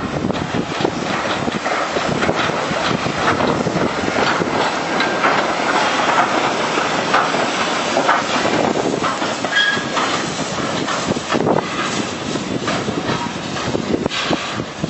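SAR 207 steam locomotive moving slowly, with steam hissing and a continual clatter of wheels and rail joints.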